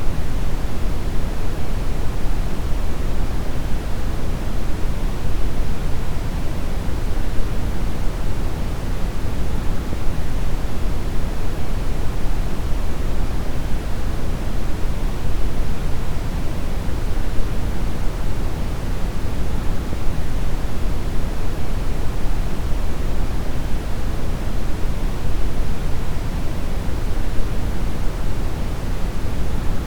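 Steady brown noise: an even, deep rushing hiss weighted heavily toward the low end, unchanging throughout.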